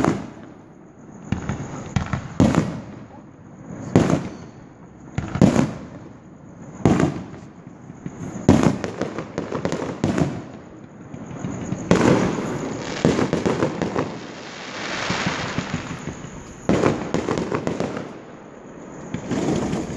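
Aerial fireworks shells bursting, a sharp bang every second or so with each one dying away. About twelve seconds in they come faster, running into crackling, and a few more bangs follow near the end.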